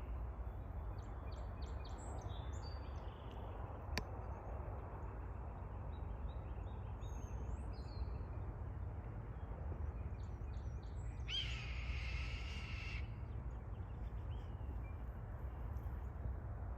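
A bird of prey screeching once, a long harsh call lasting about a second and a half, roughly eleven seconds in, with a few short, fainter bird calls earlier and a steady low rumble underneath.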